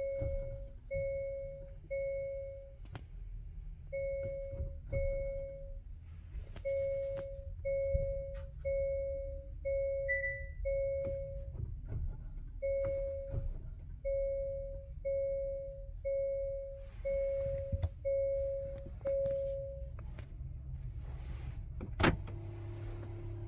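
Hyundai Palisade's in-cabin warning chime sounding about twenty times, roughly once a second, with faint clicks between, while the car won't start and its brake pedal won't press down. The chimes stop; a couple of seconds later a sharp click is followed by a low steady hum.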